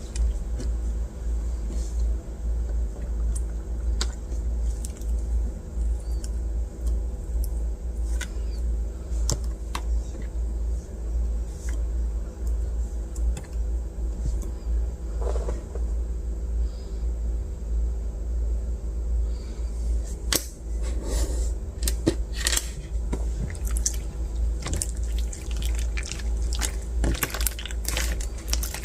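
Translucent bead slime being squished and worked by hand, its beads giving scattered small crackling clicks that come thicker in the last several seconds. A steady low hum runs underneath.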